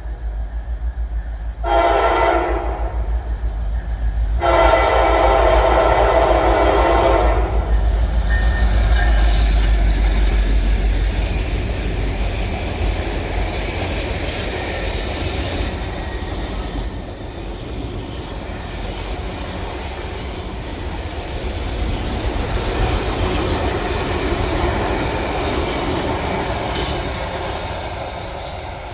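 A train sounds its horn, a short blast and then a long one, and then rolls past close by with a steady rumble and a faint high-pitched wheel squeal, growing quieter near the end.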